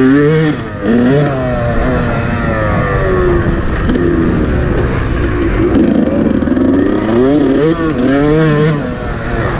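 Yamaha YZ125 two-stroke single-cylinder motocross engine ridden hard, its pitch climbing and dropping again and again with each burst of throttle and shift.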